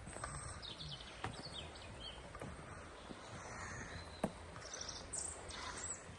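Small birds chirping and singing in short high notes over a steady low rush of river water running high, with a few faint clicks, the sharpest about four seconds in.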